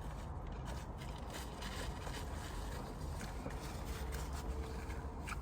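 Quiet eating sounds: faint, scattered clicks and small mouth noises of someone chewing a sandwich, over a steady low background hum.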